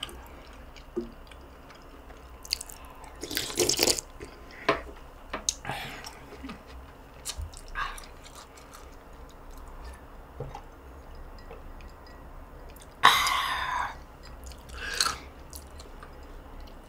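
Close-miked eating: a person chewing, with soft mouth clicks and smacks scattered through. A louder noisy burst comes about thirteen seconds in and a shorter one two seconds later.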